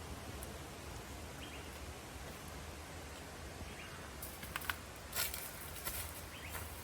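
Rainforest ambience: a steady low background noise with a faint short call repeating about every second and a half, and a few sharp crackles and rustles about four to six seconds in.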